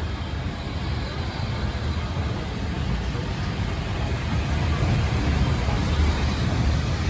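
Moving railway train: a steady low rumble that grows slightly louder after the middle.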